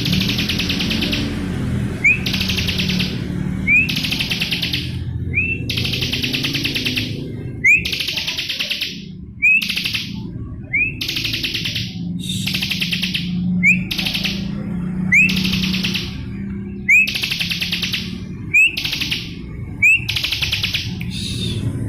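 Bar-winged prinia (ciblek) singing loudly, phrase after phrase. Each phrase is a short rising whistle followed by a rapid buzzy trill lasting about a second, and comes roughly every one and a half seconds. A low hum runs underneath.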